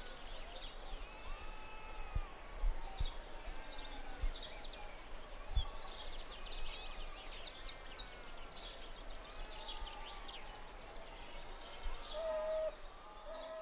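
Several birds singing and chirping, with a dense run of rapid high trills through the middle, over a faint steady hiss of outdoor ambience.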